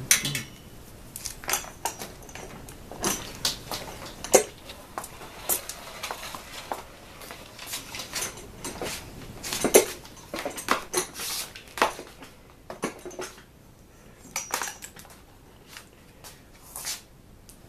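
Irregular clicks, knocks and clinks of hard household objects being handled and set down, a dozen or more sharp ones scattered throughout, the loudest about halfway through.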